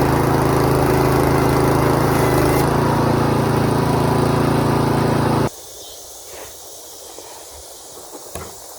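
Small engine of a band sawmill running steadily at a constant speed, cutting off suddenly about five and a half seconds in. Quiet outdoor background with a few faint clicks follows.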